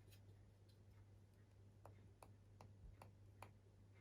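Light, evenly spaced taps of a paint-loaded brush, about two to three a second starting about two seconds in, knocked to spatter specks of watercolour paint onto the paper, over a faint low hum.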